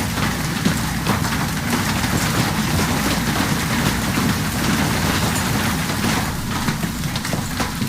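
Golf-ball-sized hail pelting down, a dense clatter of many hard impacts over a steady rush of noise.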